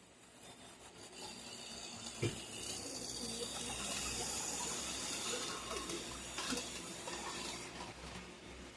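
A Tyco HO-scale model locomotive pulling a car past on the track: the motor and wheels make a rushing hiss that swells as it approaches and fades as it goes away, with a sharp click about two seconds in.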